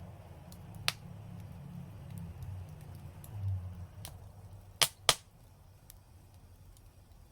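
Wood fire crackling: a low, uneven rumble with scattered faint ticks and sharp pops. One pop comes about a second in, and two loud ones follow close together about five seconds in.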